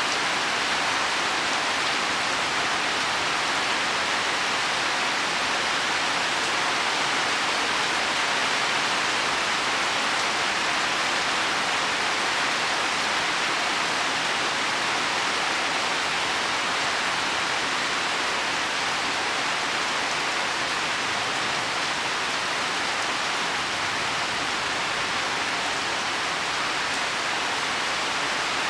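Heavy rain falling steadily on leaves and soil: an even, unbroken hiss with no single drops standing out.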